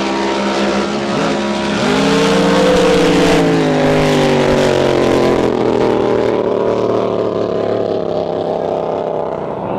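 Drag boat engine running hard, its pitch climbing about two seconds in and then slowly falling away.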